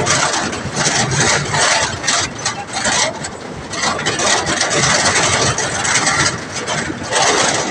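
A vehicle engine running on the move, with loud, gusting wind rush over the microphone.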